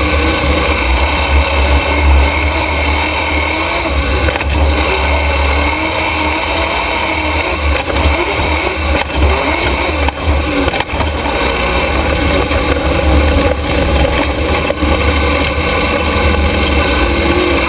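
Super stock race truck's engine running hard and steady on the track, with a brief drop in level about ten seconds in.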